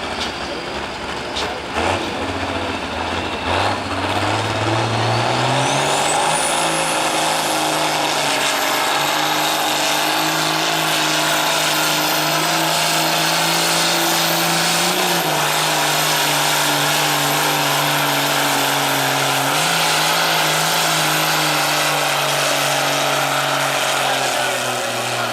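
Ford hot stock pulling tractor's turbocharged diesel engine running under load on a pull. The engine revs up over the first few seconds and then holds at high revs for about twenty seconds with a high-pitched whistle. Its pitch sags slightly twice, and the engine winds down right at the end.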